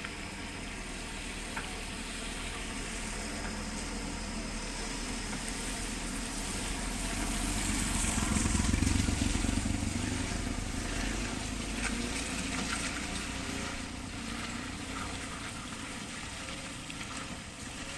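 A heavy vehicle's engine running with a low rumble and a hiss of tyres in mud and wet, growing louder to a peak about halfway through and then fading as it passes.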